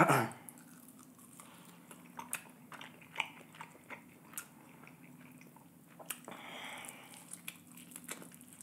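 Close-miked chewing and biting of crispy sauced fried chicken wings: soft chewing broken by scattered crunches and wet mouth clicks, with a louder bite right at the start.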